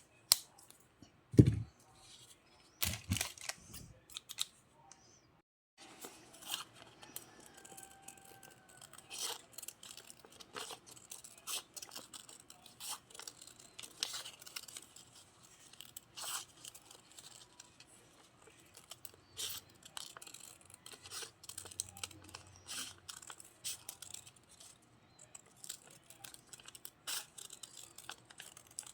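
Paper being cut with scissors and handled: many short, crisp, irregular snips and rustles. There is a heavy thump about a second and a half in, and the sound cuts out briefly just before six seconds.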